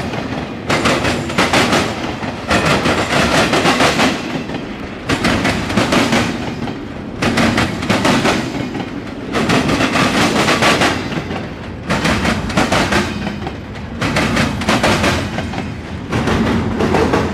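Intermodal freight train's container well cars rolling past close by, the wheels clattering over the rails in loud surges about every two seconds.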